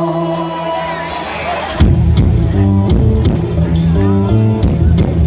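Live band music played loud over a stage PA: a held chord, then the full band with a stepping bass line and a steady drum beat comes in about two seconds in.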